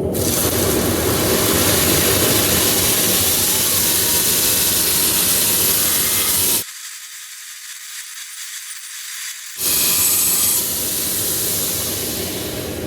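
Belt grinder with a ceramic belt grinding a steel axe drift to round off its corners, a loud steady hiss. About two-thirds of the way through the sound drops abruptly to a thin, quieter high hiss for about three seconds, then the full grinding noise comes back.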